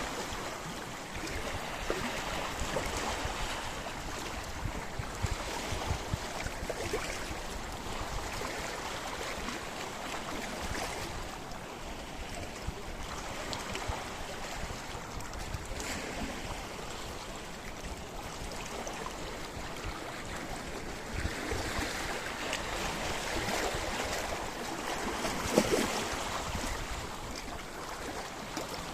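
Sea waves washing against a rocky shore, a steady rush of water with small splashes and one stronger surge near the end.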